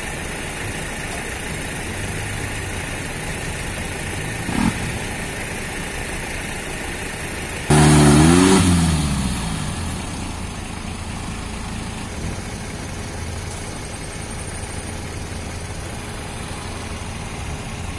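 Off-road 4x4's engine running steadily as it works through deep mud. About eight seconds in the engine is suddenly revved hard, its pitch rising for about a second before it drops back to a steady run.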